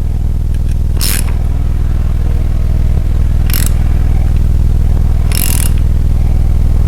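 Steady low machine hum, with four brief scraping sounds spaced about two seconds apart.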